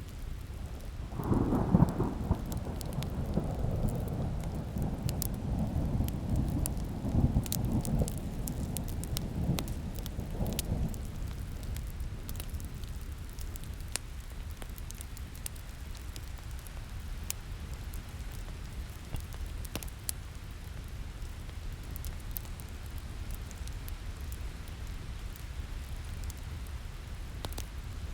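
A long roll of thunder that starts about a second in and dies away after about ten seconds, over steady rain. Sharp pops and crackles of a burning wood fire run throughout.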